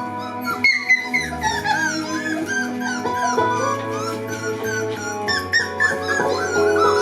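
Background music with steady held notes, over puppies whining and squeaking in many short, rising-and-falling cries.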